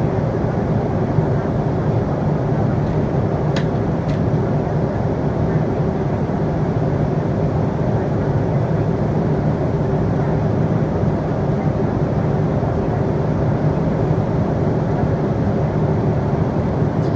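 Steady drone of an airliner's cabin: engine and air noise with no change in pitch or level. Two faint clicks about four seconds in.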